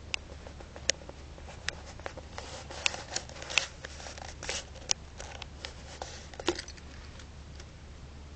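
Budgie pecking and scrabbling about: irregular sharp clicks and short rustles, busiest in the middle, with no chirping.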